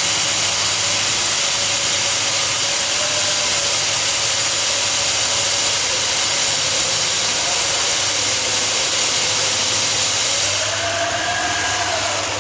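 Electric core drilling machine running steadily with a loud, hissing whine, cutting a hole through masonry. About ten and a half seconds in, the noise eases a little and a faint tone rises and then falls.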